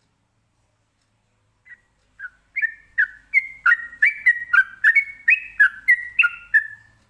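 Yellow-vented bulbul (trucukan) singing a fast 'ropelan' run: a quick series of short, clear whistled notes, about three a second, alternating between a higher and a lower pitch. The run starts about two seconds in.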